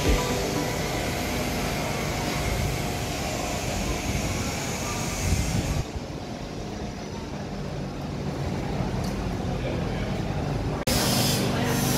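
BTS Skytrain electric train pulling into an elevated station, heard as a steady rushing noise. About six seconds in, the sound cuts abruptly to quieter background noise, and near the end it cuts again to a louder steady hum.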